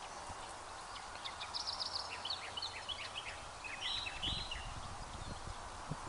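Birds calling in quick, chattering bursts from about one and a half to five seconds in, over steady wind noise with gusts buffeting the microphone.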